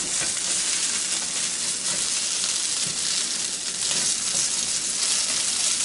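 Diced potatoes, onions and sweet peppers sizzling steadily as they fry in a Copper Chef square pan, while a slotted spatula stirs and turns them.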